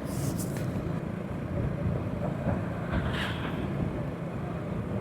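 Honda Pridor 100cc single-cylinder four-stroke motorcycle engine running steadily while riding, with road noise. Two brief hissing rushes come through, near the start and about three seconds in.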